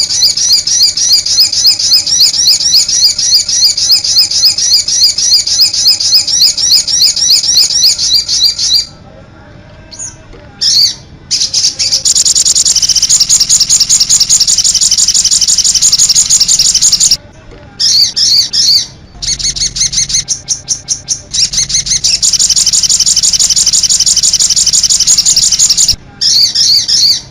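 Songbird song from a bird-tutoring (masteran) recording: long runs of rapid, repeated high-pitched chirping notes, broken by short pauses about 9, 17 and 26 seconds in.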